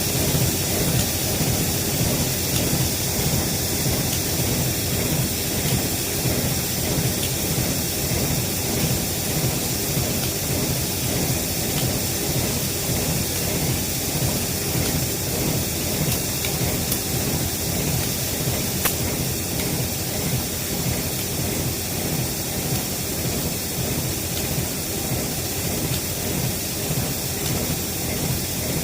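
Train running on rails: a loud, steady rumble and hiss that holds even throughout.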